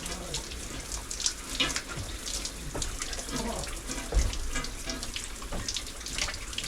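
Water from a wood-fired outdoor shower spraying and splashing steadily, with irregular louder splashes as someone washes under it.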